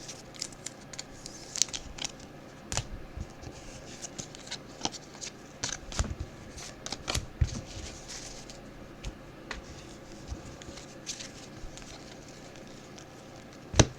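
Trading cards being handled and sorted: scattered light clicks, taps and sliding scratches, with a sharper click near the end.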